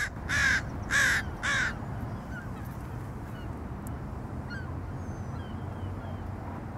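Loud, harsh bird calls, four in quick succession about two a second, stopping a little under two seconds in; then faint chirps of small birds over a steady low rumble.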